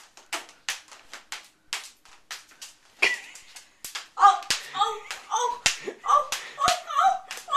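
Devil sticks being juggled: the hand sticks knock against the centre stick in a steady back-and-forth, about three sharp taps a second. Voices join in about three seconds in.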